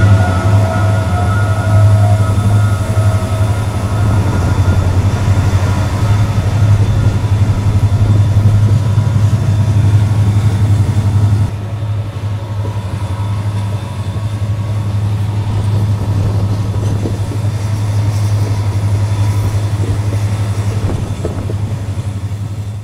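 Meter-gauge diesel-hauled passenger train running at speed, heard through an open door or window: a steady, strong low drone with the rush and rumble of the wheels on the rails. A few thin high tones sound near the start, and the level drops a little about halfway through.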